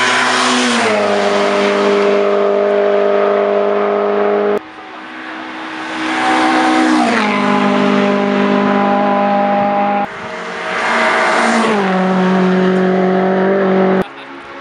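Hillclimb race cars passing one after another at full throttle, each engine note dropping in pitch as the car goes by and then holding steady as it pulls away. Each pass ends abruptly and the next begins.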